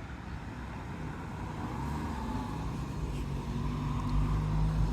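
Car road and engine noise, a steady low rumble that grows louder toward the end.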